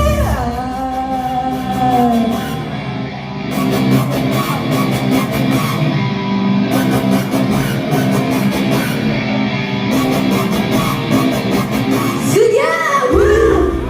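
Loud live rock-style idol pop music played through a PA, with electric guitar: a held sung note bends down and fades in the first two seconds, then the band plays an instrumental break. Near the end, shouted voices come in over the music.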